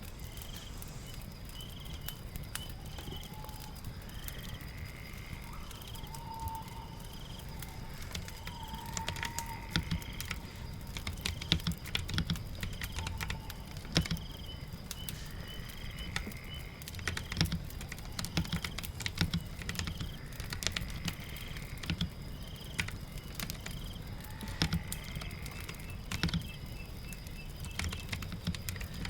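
Keyboard typing in bursts of clicks, starting about a third of the way in, over steady rain. A short high chirp repeats about once a second throughout.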